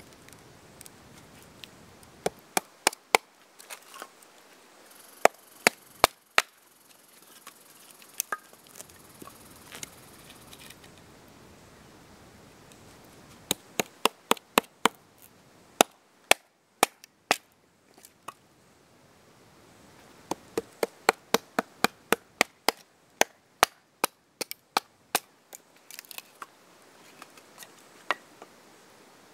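Axe splitting small firewood blocks: sharp chopping strikes in clusters of quick taps, several bursts separated by short pauses.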